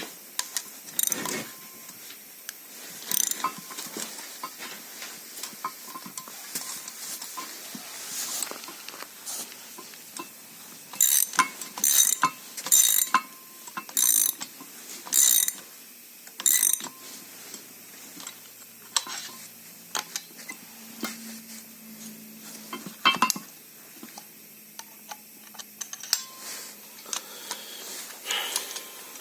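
Metal tools and brake caliper parts clinking and knocking during hands-on work. There are scattered sharp metallic clicks, with a run of about seven louder knocks roughly a second apart midway through.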